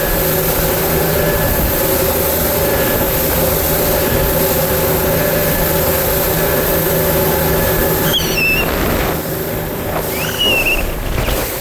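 Bass boat's outboard motor running steadily, easing off about eight seconds in, with two short high squeaks near the end.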